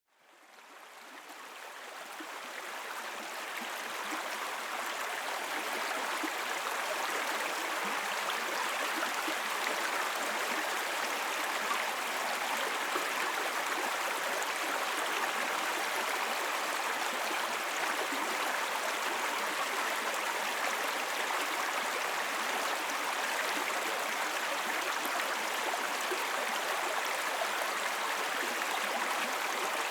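Small babbling brook: water flowing and splashing over rocks, a steady rushing noise that fades in over the first few seconds.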